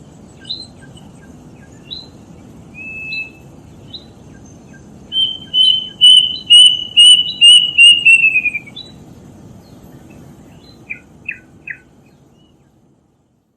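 Kedasih cuckoo calling: a loud run of about eight whistled notes, each slightly lower than the last, with softer short whistled notes before it and three quick down-slurred notes near the end.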